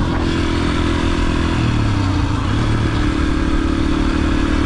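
Yamaha TT-R125's single-cylinder four-stroke engine running under way. The revs dip about one and a half seconds in, then pick up again and hold steady.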